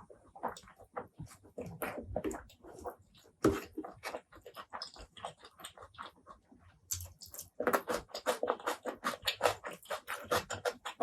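Close-miked wet chewing and lip smacking of a person eating. The smacks come in scattered ones and twos, then in a quick, steady run of chewing from about two thirds of the way through.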